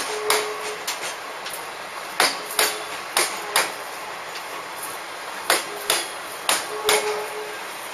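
Coal wagons' wheels knocking over rail joints as the train passes slowly: the knocks come in pairs, one per axle of a bogie, and a brief squeal follows some of them.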